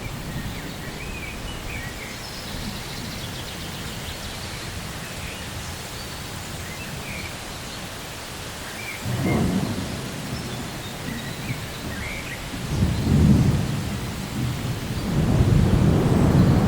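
Thunderstorm: a steady low rumble of rain and distant thunder, with rolls of thunder swelling up about halfway through, again a few seconds later, and loudest near the end.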